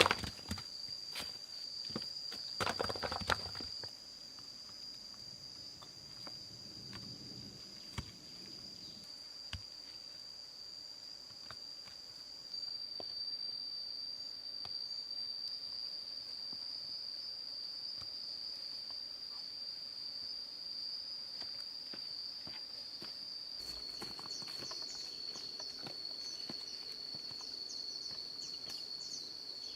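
Insects drone steadily on one high pitch. Scattered clicks and light knocks sound over it, with a short bout of rustling and knocking about three seconds in.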